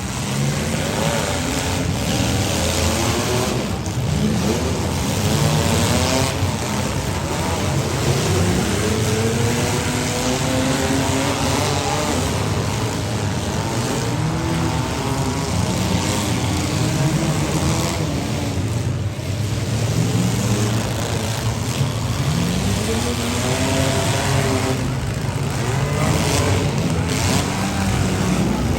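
Several compact demolition-derby cars' engines running and revving at once, their pitches rising and falling as the cars accelerate and back off.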